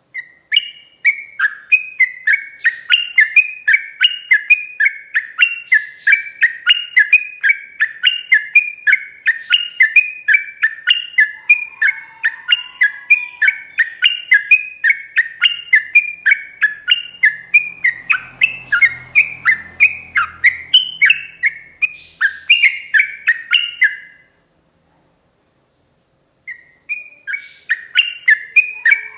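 Yellow-vented bulbul singing a long, rapid run of repeated notes, about four a second, breaking off for about two seconds near the end and then starting again.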